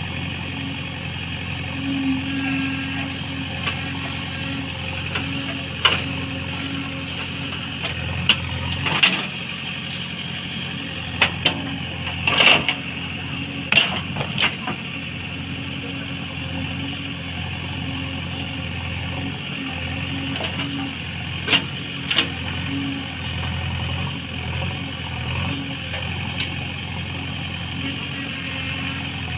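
Diesel engine of a JCB 3DX backhoe loader running steadily, with a series of sharp knocks, mostly in the middle and twice more later.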